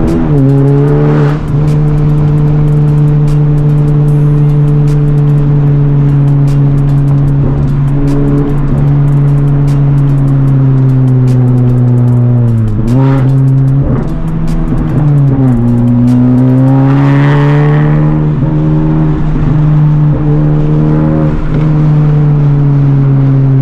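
Honda Civic Type R's turbocharged 2.0-litre four-cylinder, with a catless downpipe and resonators deleted, drones at steady revs. The pitch dips and comes back twice past the middle, then climbs slowly, with a brief rushing hiss about two-thirds of the way through.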